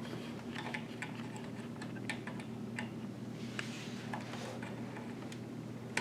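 Irregular small clicks and taps of a PC power cable and its plastic connector being handled and routed inside a computer case, over a steady low hum.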